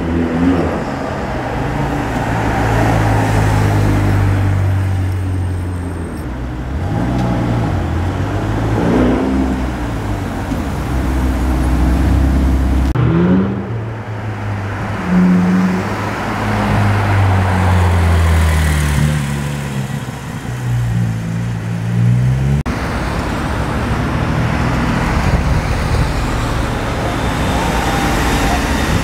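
Sports car engines rumbling as the cars roll slowly past in street traffic, with several rises and falls in pitch as they are revved. The sound changes abruptly twice.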